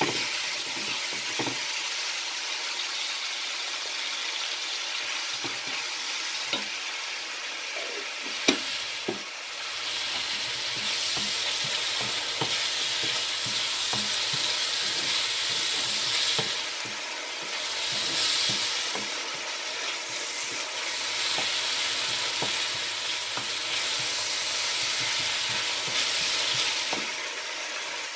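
Chopped onions with freshly added ginger-garlic paste sizzling in a frying pan, the hiss swelling and easing as they are stirred with a wooden spoon that knocks against the pan. There is one sharp click about eight and a half seconds in.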